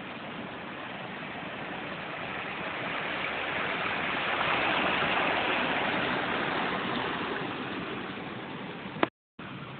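Floodwater on a road rushing and splashing, a steady wash of water noise that swells to its loudest about halfway and eases off again. A sharp click and a moment of silence near the end.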